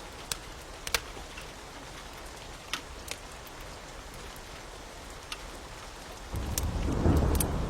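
Steady rain with scattered sharp pops and crackles of a wood fire. About six seconds in, a loud low rumble of thunder rolls in.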